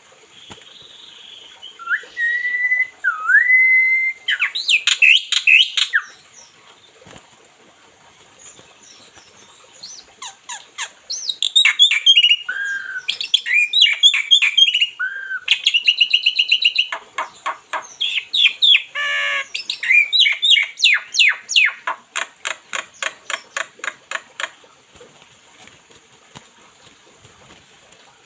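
Pet bird singing in two bouts: first clear whistled notes that glide up and down, then a quick chatter. After a pause of a few seconds comes a longer run of varied whistles and fast repeated trills, which fades near the end.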